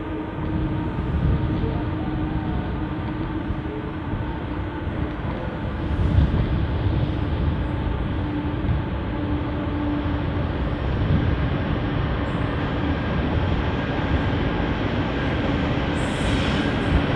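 Three diesel locomotives hauling a coal train approach with a steady engine drone and low rumble that slowly grows louder. A high hiss joins in near the end as the locomotives draw close.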